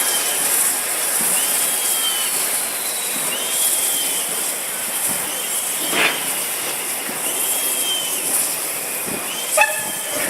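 Steam locomotive hissing steadily, with a short squeal recurring about every second and a half and two sharp knocks, one near the middle and one near the end.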